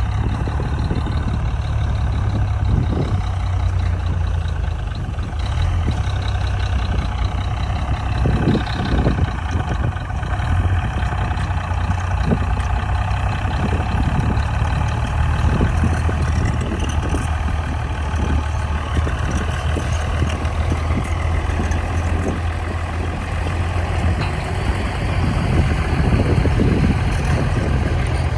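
Heavy diesel engine of earthmoving machinery running steadily, with a few short knocks and clanks scattered through.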